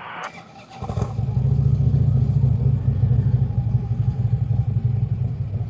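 A motor vehicle engine running close by, a steady low rumble that starts about a second in, after a brief clatter.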